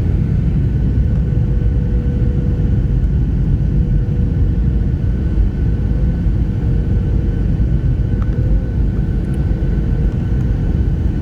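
Steady, loud low rumble of airliner cabin noise from the engines and airflow, with a faint steady whine over it.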